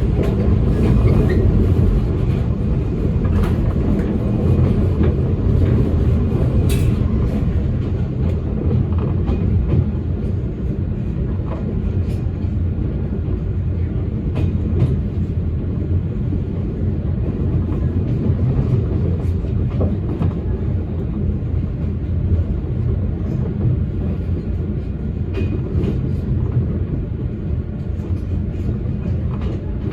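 Electric train running along the track, heard from inside the car: a steady low rumble with scattered clicks from the wheels.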